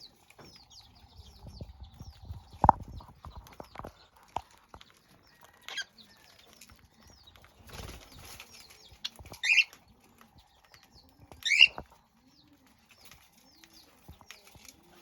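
Colony of budgerigars and cockatiels: many short, quick chirps, two loud calls standing out in the second half, and wings flapping. A sharp knock about three seconds in.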